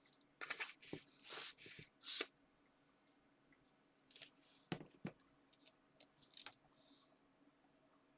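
Paper and card being handled on a craft table: several short rustles and scrapes in the first two seconds, then a few light taps and a soft rustle.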